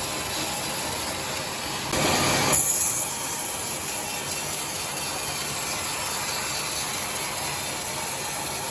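Sawmill saw running steadily while ripping timber into boards, with a louder surge lasting under a second about two seconds in.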